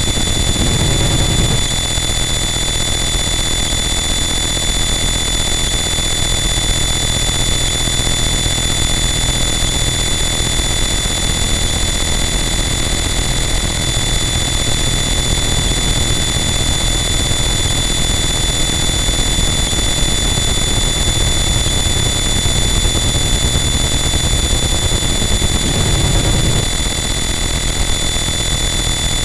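Harsh noise wall: a dense, unchanging wall of loud static noise, heaviest in the low end, with a few steady high whining tones running through it. A low rumbling swell rises briefly near the start and again near the end.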